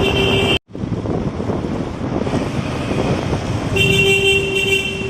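Road and wind noise from riding a motorcycle, with a vehicle horn sounding at the start and again for about a second and a half near the end. The sound drops out for an instant under a second in.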